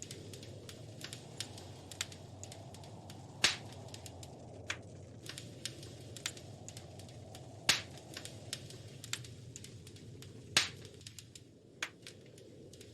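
Wood fire crackling in a fireplace: irregular small snaps over a steady low rumble of burning, with three louder pops spaced about three seconds apart.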